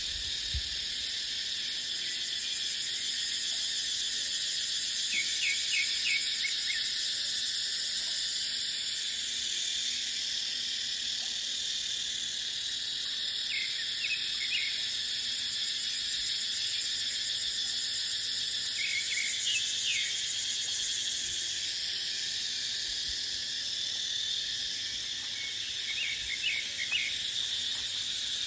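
Cicadas droning in a dense, high chorus that swells louder and eases off a few times, with short high chirps breaking in now and then.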